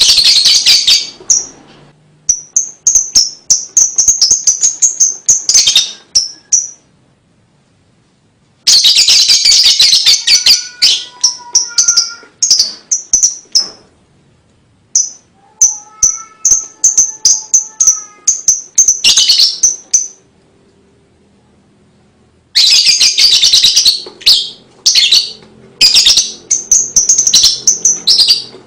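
Lovebird song: loud bursts of fast, high-pitched rattling chatter alternating with runs of short, sharp high chirps, broken by pauses of a second or two. A few faint lower whistled notes sound under the chatter in the middle.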